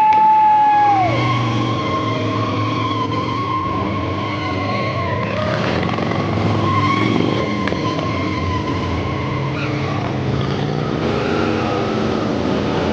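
Stunt motorcycle's engine revved hard and held high for about a second, then dropping and running on at steady revs under throttle.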